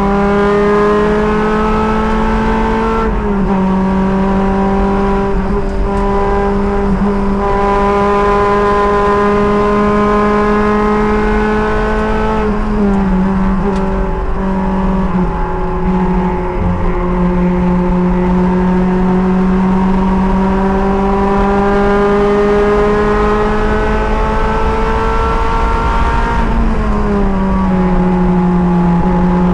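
Race car engine running at sustained high revs, heard from the driver's seat, its pitch climbing slowly and then dropping sharply three times, with a steady rumble of wind and road noise underneath.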